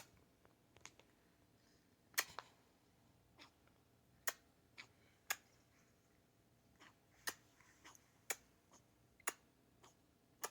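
Guacamole giving off faint, sharp pops and clicks at irregular intervals, about one a second.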